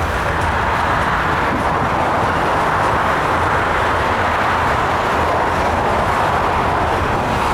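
Intermodal freight train's cars rolling past, with a steady noise of steel wheels on rail.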